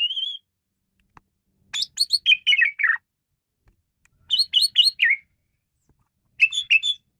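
Male Asian pied starling (jalak suren) in full varied song: three bursts of quick, whistled, up-and-down notes separated by short pauses.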